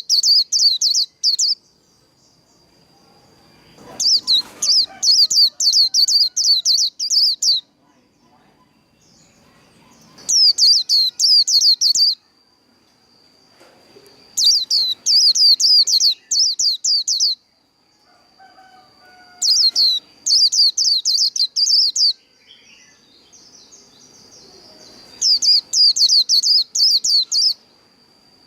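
White-eye (vành khuyên) singing its rapid twittering 'líu' song in about six loud bouts of fast, high, sweeping chirps, each two to three seconds long with short pauses between. A thin steady high tone runs underneath.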